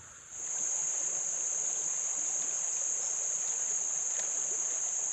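Steady, high-pitched insect chorus that cuts in abruptly a moment in and holds unbroken, over a faint wash of creek water.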